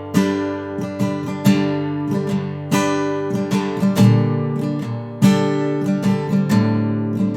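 Acoustic guitar strummed in chords, an instrumental break in a slow folk song.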